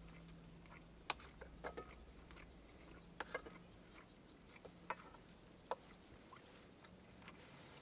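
Quiet eating sounds: scattered short clicks and taps, about six in all, over a low steady hum.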